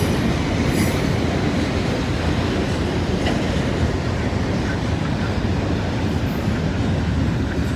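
The last cars of a long freight train rolling past, a steady rumble of wheels on rail that eases off slowly.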